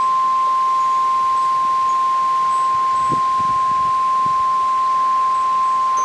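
NOAA Weather Radio warning alarm tone: one steady, loud, high beep held without a break, the alert that comes before a severe thunderstorm warning is read out.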